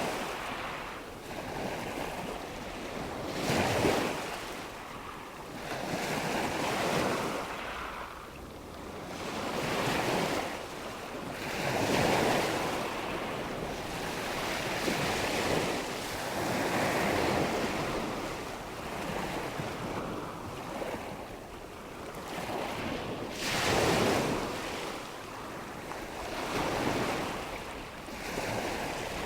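Waves washing in and drawing back, a swelling and fading wash of water noise every few seconds, with wind behind it.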